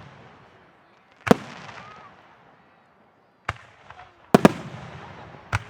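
Aerial fireworks shells bursting overhead: a sharp boom about a second in, another at about three and a half seconds, a quick pair soon after and one more near the end. Each is followed by a rumbling echo that fades away.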